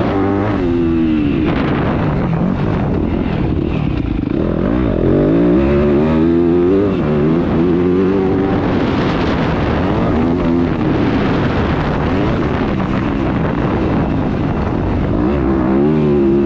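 Yamaha YZ250F four-stroke single-cylinder motocross engine being ridden hard on a dirt track, its pitch rising and falling again and again as the throttle opens and closes, heard from on the bike.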